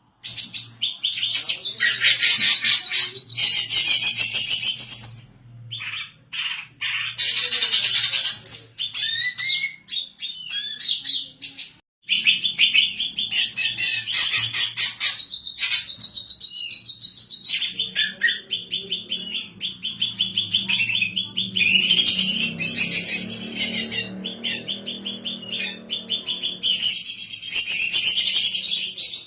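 Female greater green leafbird (cucak ijo) singing in long runs of fast, high chirps, with short breaks about 6 and 12 seconds in.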